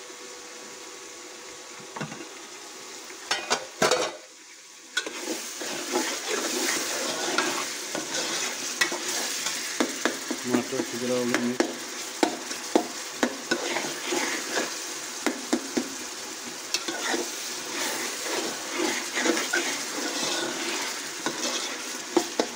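Tomato and onion masala sizzling in a covered metal pot, with a metal clatter as the lid comes off about three to four seconds in. After that the sizzling is louder, and a metal ladle stirring the masala clinks and scrapes against the pot over and over.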